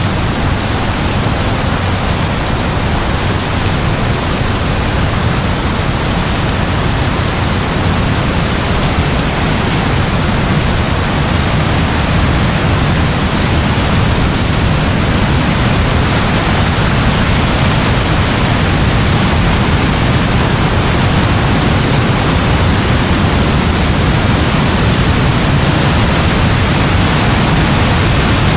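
Heavy rain pouring steadily, a dense, even hiss with a steady low rumble underneath and no distinct thunderclaps.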